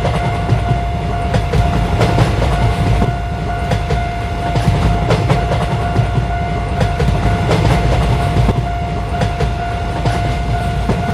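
A train passing: a loud, continuous low rumble with irregular wheel clatter, over a steady high tone.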